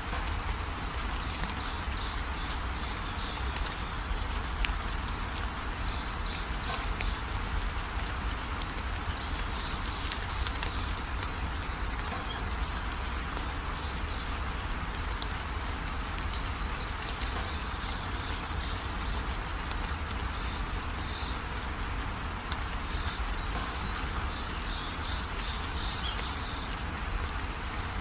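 Birds chirping in short bursts every few seconds over a steady hiss and low hum.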